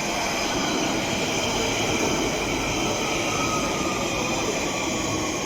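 London Underground Central line train running along the track, a steady rumble of wheels on rails with several high whining tones held over it.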